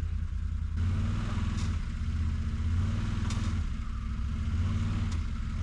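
An engine running steadily, getting louder and harsher about a second in as it works harder, with a few sharp clanks over it.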